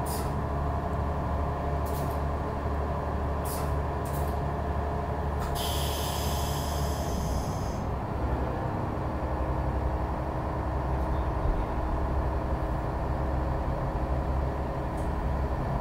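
Heritage train running, heard from inside a passenger carriage: a steady low rumble and locomotive drone with a few sharp clicks from the wheels and rails. About six seconds in, a high hiss lasts about two seconds.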